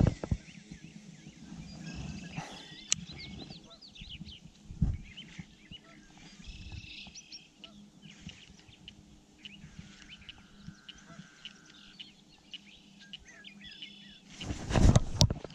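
Small birds chirping and calling around a pond, many quick short chirps throughout, with one held steady note lasting about two seconds near the middle. A loud rush of noise comes near the end.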